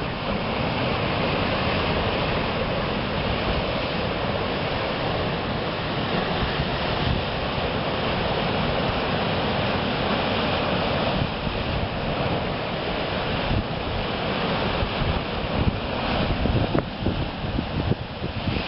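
Ocean surf breaking and washing in, a steady rush of water, with wind buffeting the microphone in gusts.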